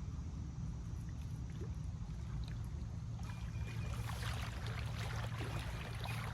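Creekside ambience: a steady low rumble, with trickling, crackling water noise that grows busier about halfway through.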